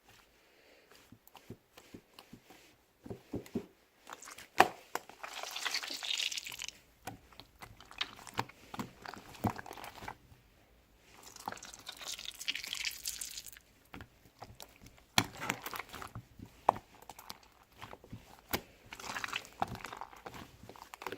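Slime being squished, pressed and stretched by hand, with many sharp clicking pops and three longer crackling, hissing stretches.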